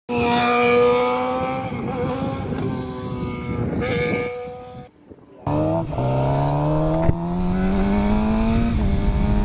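Sport motorcycle engine, a Suzuki GSX-R 750 with an Akrapovic slip-on exhaust, running with its pitch slowly dropping as it slows. The sound cuts out briefly about halfway through. Then the engine pulls steadily up in pitch as the bike accelerates.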